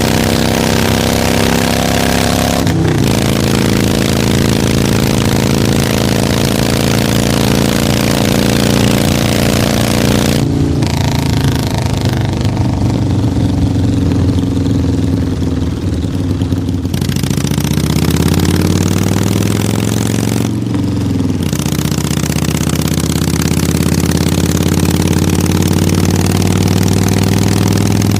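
Harley-Davidson motorcycle engine running continuously. Its pitch holds steady for long stretches, drops briefly a few times as the high end falls away, and climbs for a few seconds about two-thirds through as it revs up.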